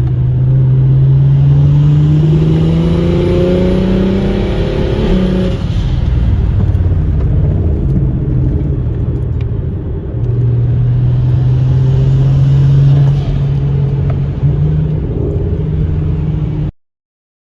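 BMW 335is's N54 inline-six, fitted with a single-turbo kit, pulling hard under acceleration, its pitch rising over the first five seconds, then easing and pulling again. The sound cuts off suddenly near the end.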